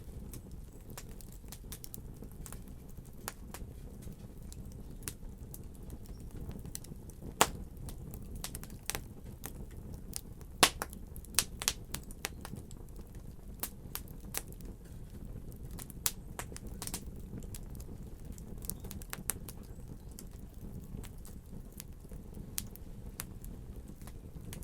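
Wood fire in a fireplace burning steadily with a low rumble of flames and irregular crackles and sharp pops, the loudest a few near the middle.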